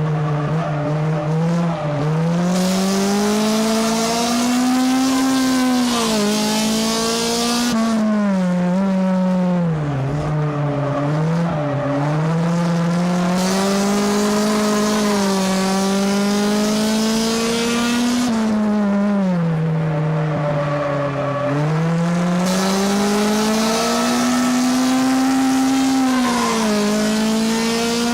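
Race car engine heard from inside the car at racing speed, repeatedly winding up and then easing off in long swells as the car laps a short oval, with stretches of high hiss over it.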